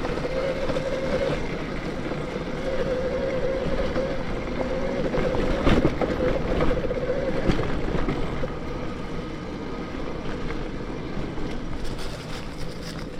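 Electric mountain bike on the move: the 72V BBSHD mid-drive motor whines steadily under power over wind and tyre noise, with a couple of sharp knocks from the bike around the middle.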